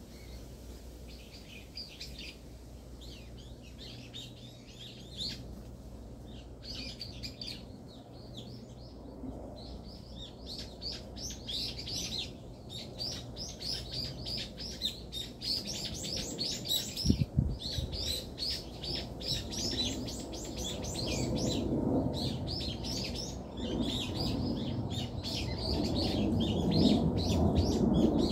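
Small songbirds chirping, dense runs of short high calls that keep coming. A low rumble builds through the second half, and a brief double knock comes partway through.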